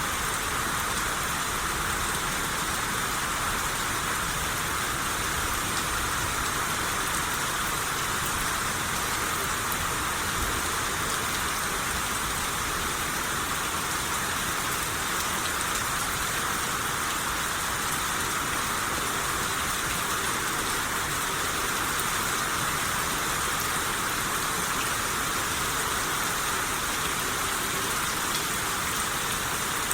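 Steady rain shower falling on a surface, a constant even hiss of drops.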